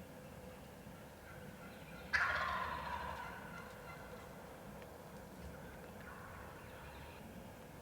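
Wild turkey gobbler gobbling once, starting suddenly about two seconds in and trailing off over a second or so.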